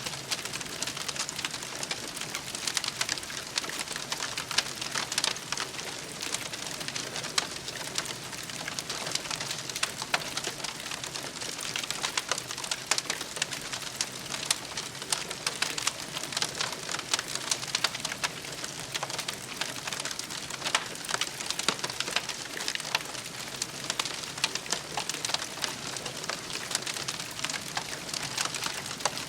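Campfire crackling: burning wood giving a steady, dense stream of small pops and snaps over a soft hiss.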